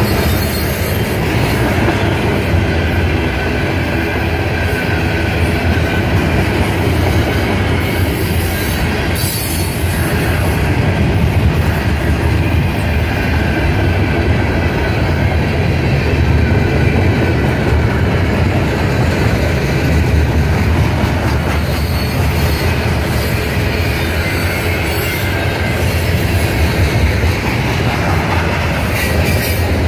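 Freight train's steel coil cars rolling past at close range: a steady rumble of steel wheels on the rails, with a faint, thin, high wheel squeal over it.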